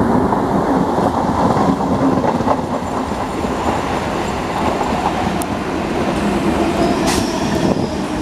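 Electric multiple unit commuter train passing at speed: a steady loud rumble of steel wheels on the rails, with rapid clicking as the wheels run over the rail joints.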